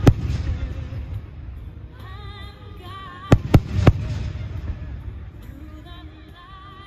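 Fireworks shells bursting: one sharp bang at the start, then three bangs in quick succession about three and a half seconds in, with a low rumble between them.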